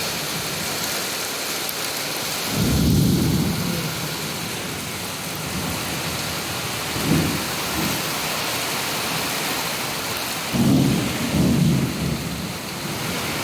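Heavy rain pouring steadily in a thunderstorm, with low rumbles of thunder swelling up about two and a half seconds in, briefly around seven seconds, and in two close rolls near the end.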